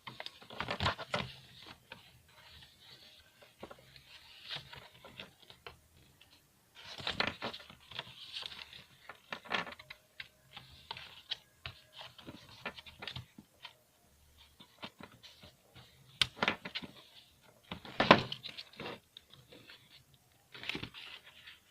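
Doll packaging being handled: plastic and cardboard rustling and crinkling in irregular bursts of crackles and clicks, loudest about eighteen seconds in.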